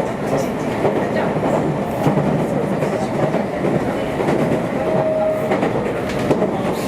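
Running noise of a Meitetsu limited express train at speed, heard from inside the car: a steady rumble of wheels on rail with irregular clicks over the track.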